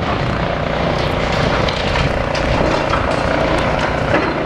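Diesel engine of a demolition excavator running steadily, with scattered short knocks and clatter from the demolition work.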